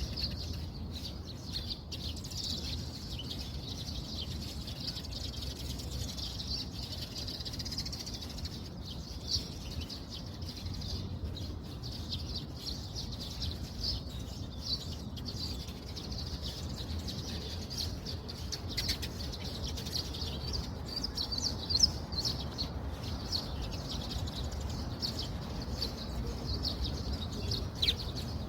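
Birds chirping continuously: many short, high calls overlapping, over a steady low background rumble.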